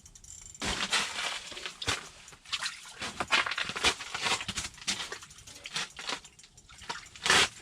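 Irregular splashing and scraping as a hooked fish is brought up through the ice hole and handled. It starts about half a second in, and the loudest burst comes near the end.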